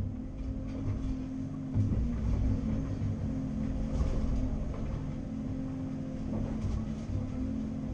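Caterpillar 330 Next Generation excavator's diesel engine running steadily while working, with a few short knocks and clanks.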